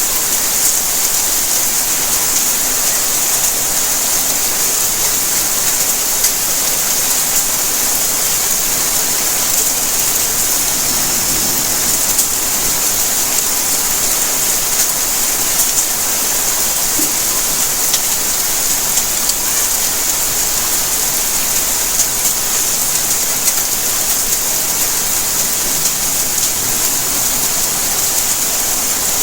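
Steady rainfall, a dense even hiss with many small drop ticks scattered through it.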